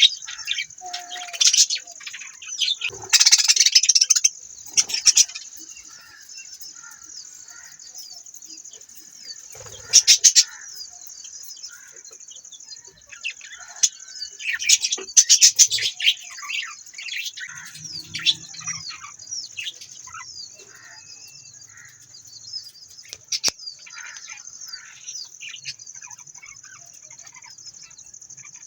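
Budgerigars chattering: a busy stream of short, quick chirps, with a few louder bursts about three, ten and fifteen seconds in. A steady high-pitched drone runs underneath.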